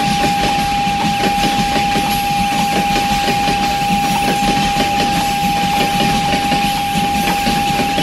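Freight train of open-top gondola wagons rolling past. The wheels click and rumble steadily over the rail joints, with a steady high tone sounding continuously throughout.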